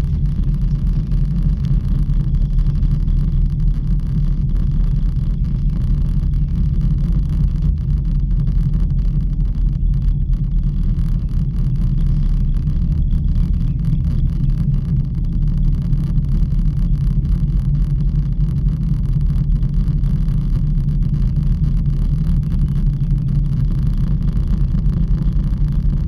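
Steady low rumble of an aerial ropeway gondola ride, with no clear tone or rhythm.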